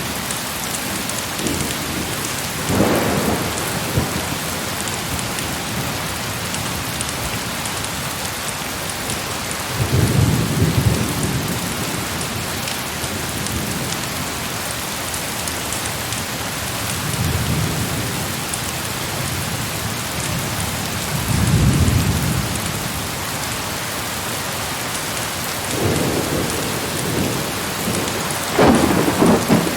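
Steady heavy rain with low rolls of thunder swelling and fading several times, the loudest near the end.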